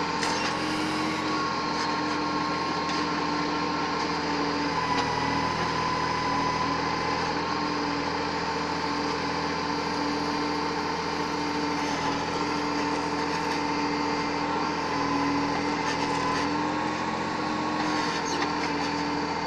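Backhoe loader's engine running steadily with a constant whine whose pitch rises and falls slightly a few times.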